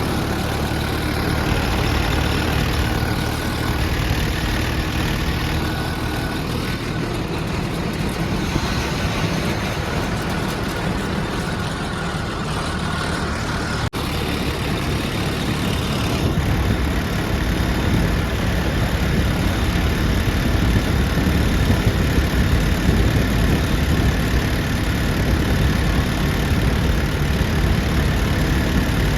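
Mahindra Arjun 555 tractor's diesel engine running steadily while it pulls a trolley loaded with wood, getting slightly louder a little past the middle.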